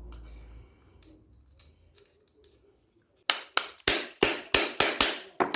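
A run of about eight sharp knocks, three to four a second, starting about three seconds in. They come from tapping on the washing machine's gearbox and pulley assembly while it is being taken apart. Before them there are faint scattered clicks of handling.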